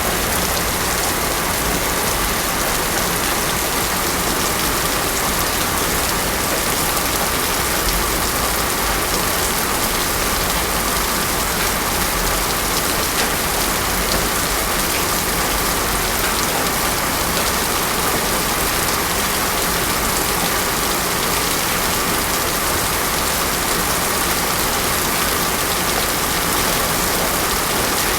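Heavy rain falling steadily on a paved road, an even, unbroken hiss of drops with no thunder.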